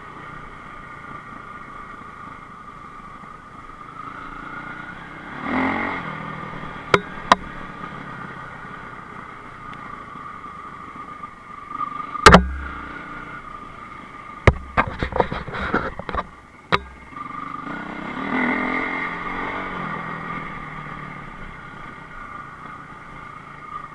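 Enduro motorcycle engine running, revving up twice. Sharp knocks and thumps fall between the revs, the loudest near the middle, followed a few seconds later by a rapid cluster of knocks.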